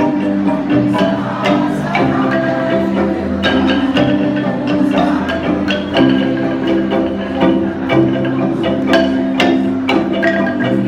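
Kolintang ensemble playing: wooden mallet-struck xylophones with bass notes held by rolling, in a steady run of music.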